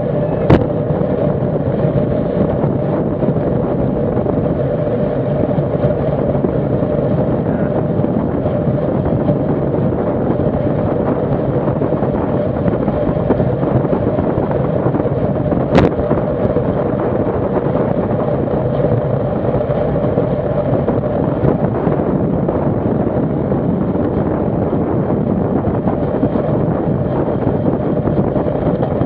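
Steady rush of wind and tyre noise from a road racing bicycle at race speed, heard on the rider's onboard camera microphone, with a steady hum underneath. Two sharp knocks stand out, one just after the start and one about halfway through.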